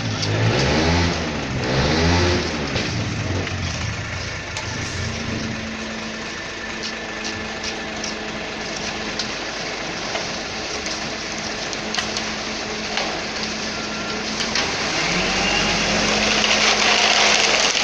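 Concrete mixer truck's diesel engine revving up and down, then settling to a steadier run, with the revs picking up again near the end.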